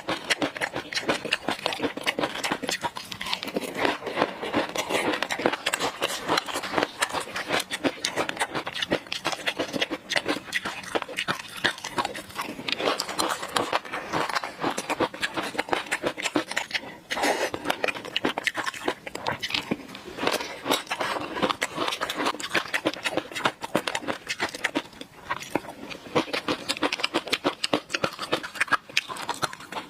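Close-miked chewing and mouth sounds from eating fish roe sauce: a dense, unbroken run of small wet clicks and crackles.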